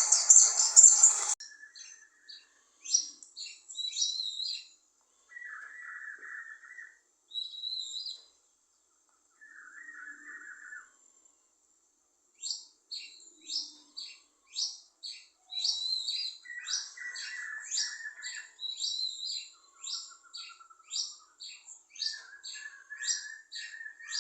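Wild birds calling and chirping, sparse at first and then a quick run of repeated chirps with lower calls mixed in from about halfway. A loud hissing noise cuts off suddenly about a second and a half in.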